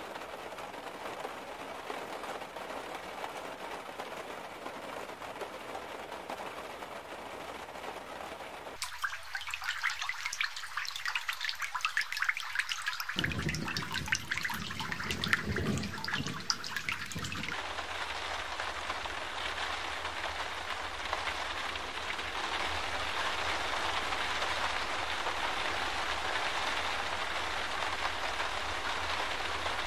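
Heavy rain falling in a downpour, a steady hiss. About nine seconds in it turns to a crackly spattering of rain hitting nearby surfaces for several seconds, then settles back into a steady, slightly louder hiss.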